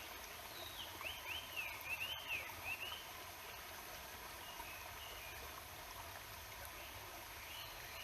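Steady rushing of a river, with a songbird singing a run of quick up-and-down whistled notes from about half a second in, and a few shorter, fainter phrases near the end.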